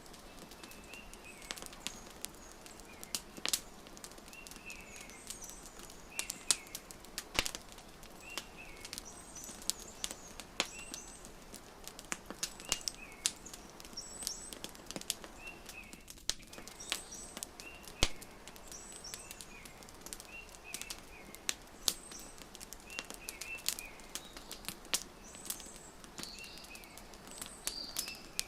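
Wood fire crackling, with frequent sharp pops and snaps over a soft steady hiss. A bird chirps in short repeated calls every second or two behind it.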